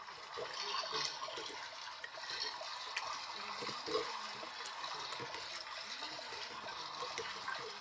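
Water running and splashing inside an LG washing machine's tub during its rinse cycle, a steady hiss with faint small clicks.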